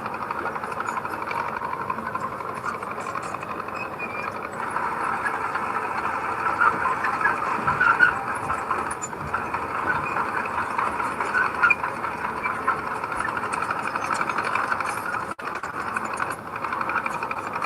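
A bulldozer at work pushing soil, its diesel engine and steel tracks making a steady mechanical clatter that grows a little louder about six seconds in and eases again near twelve seconds.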